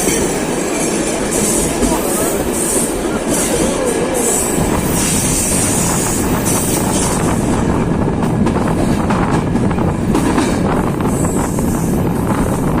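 Diesel-hauled passenger train, Corail coaches behind a GT26HCW-2A locomotive, running steadily along the line: a loud, continuous rumble of wheels on the rails, with a hiss in the upper range that swells and fades.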